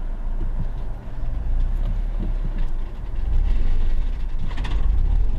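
A vehicle running with a steady low rumble, with a brief higher, noisier sound about four and a half seconds in.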